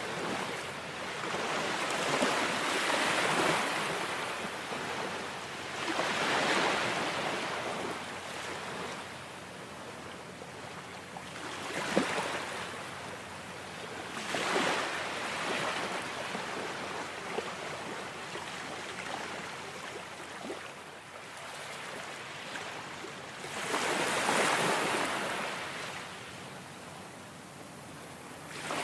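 Ocean surf: waves breaking and washing in, each one a swelling rush of noise that fades again, with a longer lull in the middle before a big wave near the end.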